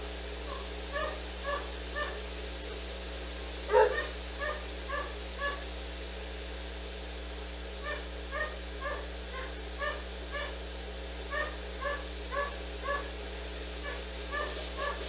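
A dog whimpering in short, high-pitched whines, about two a second in runs, with one louder sharp sound about four seconds in, over a steady low electrical hum.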